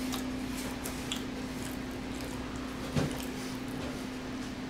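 Close-miked chewing and wet mouth sounds of someone eating, with small clicks and one louder knock about three seconds in, over a steady low hum.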